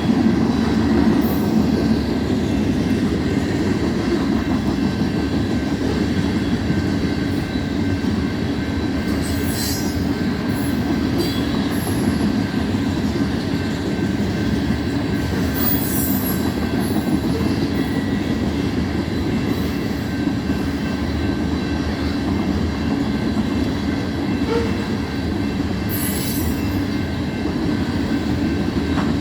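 Cars of a BNSF unit grain train rolling steadily past: a constant rumble of steel wheels on rail, with a thin, steady wheel squeal over it. A few sharp clicks come about ten, sixteen and twenty-six seconds in.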